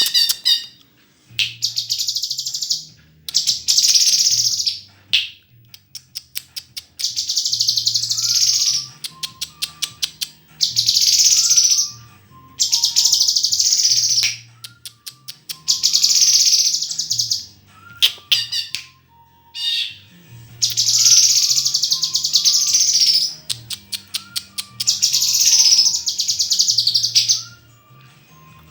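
Murai songbird singing loud, dense, buzzy phrases about every two seconds, with rapid clicking notes between phrases. Faint low stepped tones run underneath.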